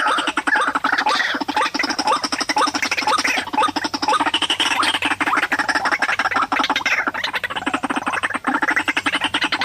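White-breasted waterhen calls: a fast, unbroken run of harsh, repeated notes with falling sweeps.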